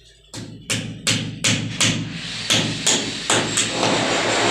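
Hammer driving a nail to hold a pipe in place, about ten sharp blows at roughly three a second.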